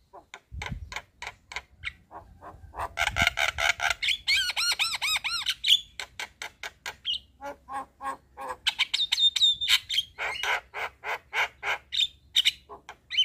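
Javan myna (jalak kebo) singing: long runs of quick, evenly repeated harsh chattering notes mixed with squawks and a few looping whistled notes.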